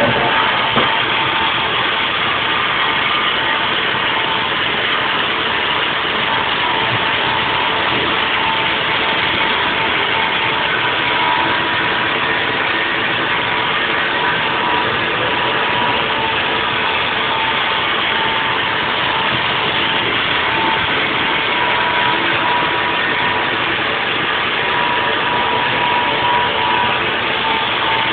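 Haas VF4 CNC vertical mill running a 3D machining cut: a steady machine noise with a thin whine that fades in and out.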